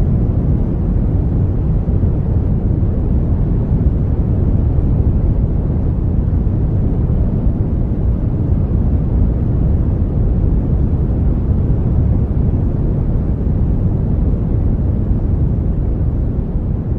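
Steady brown noise: an even, deep hiss, strongest in the low rumble and falling away toward the highs, with no breaks or changes.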